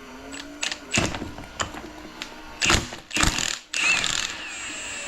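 Metal parts of a 4L60 automatic transmission knocking and clinking as they are handled. Near the end this gives way to a longer metallic scraping with a faint wavering ring.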